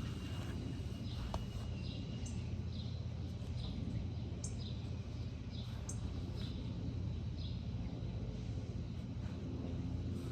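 A small bird chirping in short high notes, about two a second, through the middle of the stretch, over a steady low outdoor rumble.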